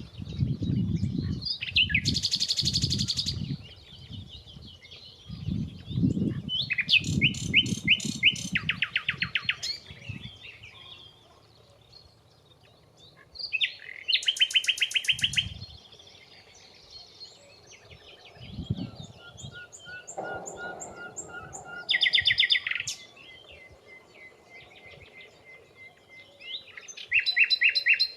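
Nightingale singing in separate phrases of fast, repeated trilled notes with pauses between them: about five phrases. Low rumbling runs under the song for roughly the first ten seconds.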